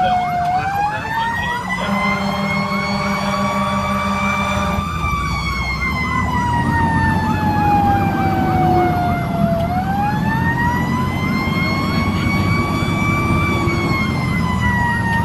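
Fire engine's electronic siren wailing, sliding slowly up and down in pitch, with a faster warbling yelp running alongside it. A low steady horn tone sounds for about three seconds near the start. The truck's engine runs underneath.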